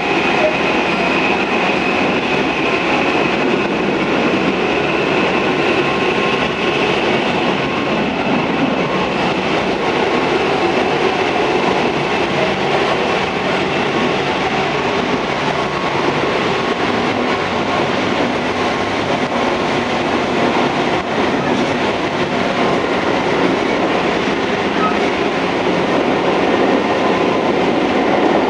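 Tobu 634 series electric train running, a steady rumble of wheels on rail. A thin high tone sounds over it and fades out over the first several seconds.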